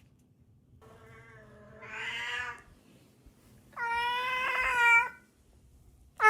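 A cat meowing twice: a long drawn-out meow that grows louder toward its end, then a second, louder meow about a second later.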